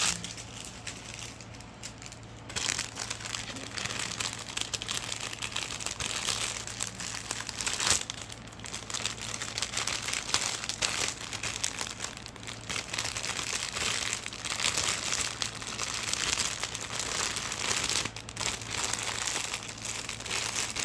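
Plastic packaging crinkling and rustling as it is handled, in irregular bursts with short pauses, over a low steady hum.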